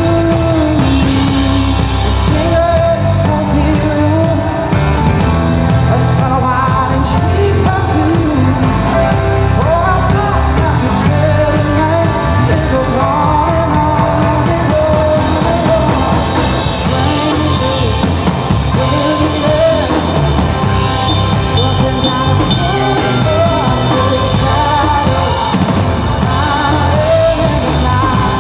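Live rock band playing, amplified, with singing over electric guitar, bass and drum kit.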